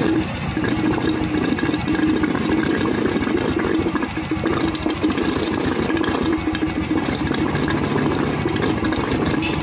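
Royal Enfield Thunderbird 350 single-cylinder engine idling steadily on a test run after its camshaft timing has been reset.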